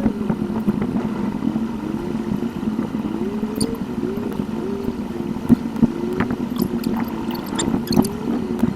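Car cabin sound recorded by a dashcam and played back sped up eightfold: a steady engine and road drone whose pitch wavers quickly up and down, with a few light clicks.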